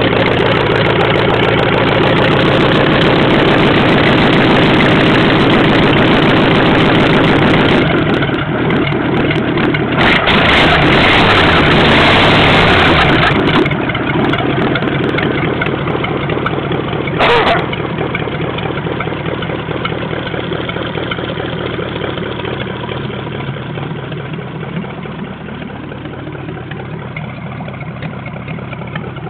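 Ford flathead V8 running just after a cold start. It grows louder and rougher for a few seconds about ten seconds in, gives one short sharp sound a few seconds later, then settles and grows gradually quieter.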